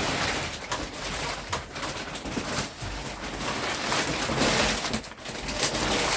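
Plastic wrapping crackling and rustling as a heavy, freshly unpacked memory foam mattress is handled and shifted, in an irregular run of crinkles and soft knocks.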